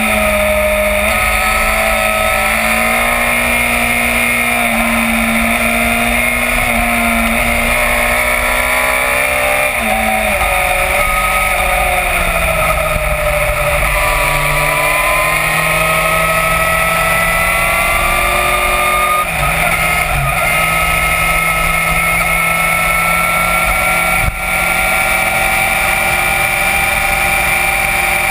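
Yamaha FZ1's inline-four engine running under way, recorded on the bike. Its pitch holds steady, drops about ten seconds in as the bike slows into a bend, then climbs gradually as it pulls out along the road, with a brief dip in level near the end.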